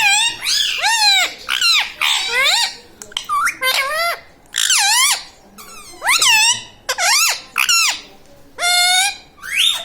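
Ringneck parrot calling: a run of short, high-pitched squawks that rise and fall, many coming in quick pairs.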